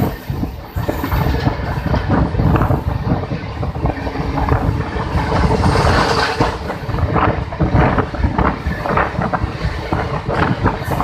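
Indian Railways passenger train running past close by: a loud, steady rumble of the wheels with repeated knocks as they clatter over the rail joints.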